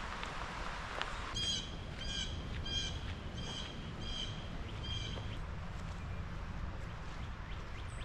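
A bird calling six times in a quick series, short calls about every two-thirds of a second, over a steady low outdoor background noise.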